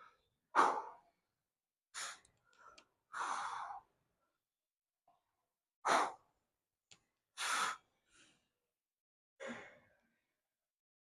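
A man sighing and breathing out hard, about six separate breaths spaced a second or two apart, two of them longer drawn-out exhales.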